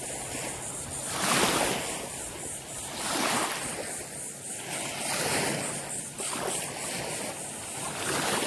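Small waves washing up onto a sandy beach, each wash swelling and fading about every two seconds.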